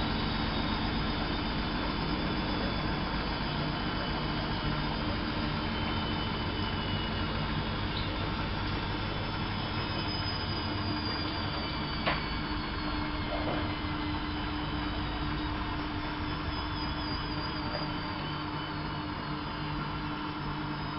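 Bauknecht WAP 6460 washing machine running with a low rumble and a motor whine that slowly falls in pitch, as the drum slows down. There is a single sharp click about twelve seconds in. The owner says the drum bearing has play.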